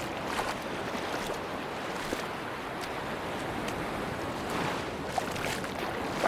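Sea waves washing steadily onto a beach, with wind and small splashy crackles scattered through.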